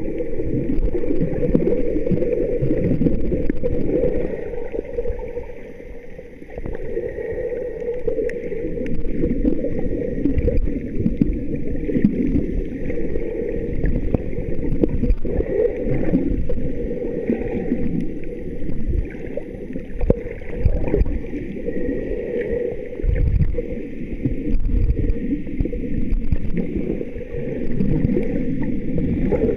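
Water sloshing and gurgling close to the microphone, heavy in low rumble, with a brief lull about six seconds in.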